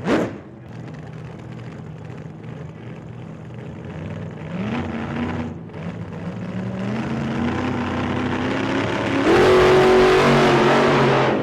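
A vehicle engine running and gradually picking up speed, its pitch climbing with a step up about four seconds in. A loud rush joins it about nine seconds in, and the sound cuts off abruptly at the end.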